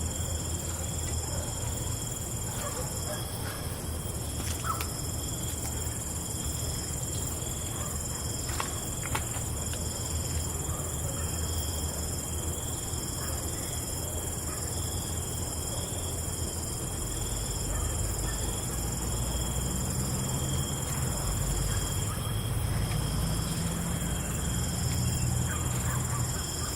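Night insects, crickets, trilling steadily at several high pitches over a low rumble.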